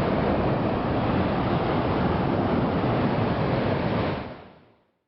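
Volcanic eruption: the vent blasting out ash with a steady, jet-engine-like rushing roar, which fades away about four seconds in.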